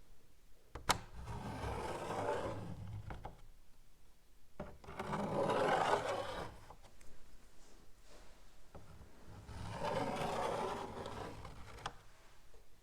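Chalk writing on a blackboard in three scratchy stretches of about two seconds each, with a sharp tap as the chalk meets the board about a second in.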